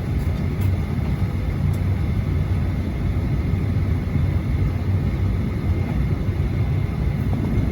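Steady low rumble of a Boeing 737-800 on the ground, heard from inside the passenger cabin.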